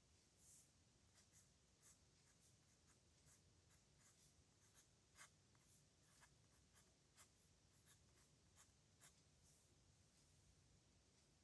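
Faint scratching of a pen on paper, writing in short, irregular strokes.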